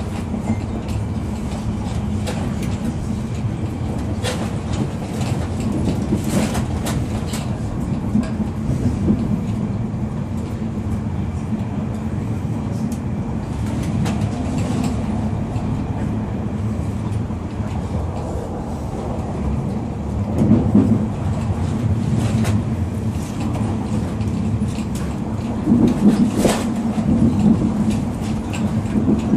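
Melbourne suburban electric train running along the track, heard from on board: a steady low rumble with scattered clicks and clatters of the wheels over the rails. The rumble swells louder twice, about two-thirds of the way in and near the end.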